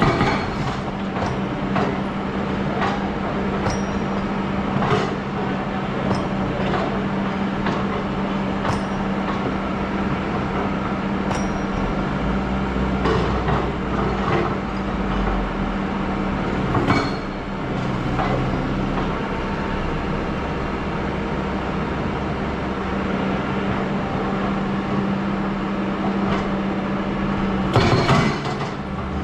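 Hydraulic excavator's diesel engine running steadily, with scattered metallic clinks and knocks throughout and louder clattering twice, about halfway and near the end. A deeper rumble joins in for a few seconds midway.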